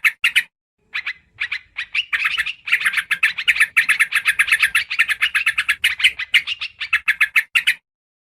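Yellow-vented bulbul (trucukan) calling: a rapid chatter of short, bright notes. A few scattered notes open it, then a dense run of about a dozen notes a second lasts several seconds and stops shortly before the end. It is a lure recording meant to draw bulbuls in.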